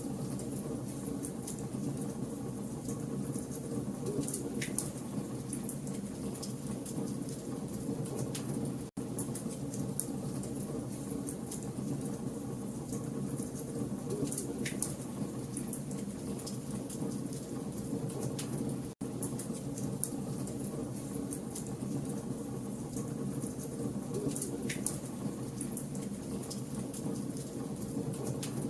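Campfire of burning logs crackling steadily, a dense bed of small snaps with a few louder pops, over a low rumble from the flames. The sound cuts out for an instant twice.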